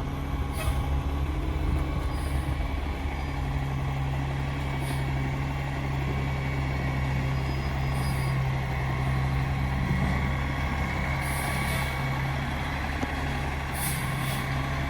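Garbage truck engine running steadily, with short hisses of air every two or three seconds.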